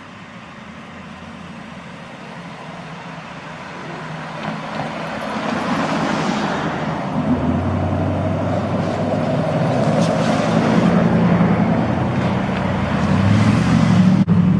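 Heavy truck's diesel engine approaching, growing steadily louder as it draws near, its low engine note strongest near the end.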